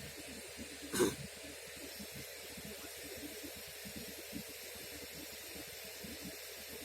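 Steady faint hiss of outdoor background noise with a low fluttering rumble, broken by one short knock about a second in.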